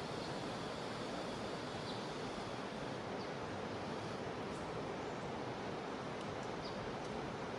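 Jungle river water rushing steadily, with a few faint, short, high chirps scattered over it.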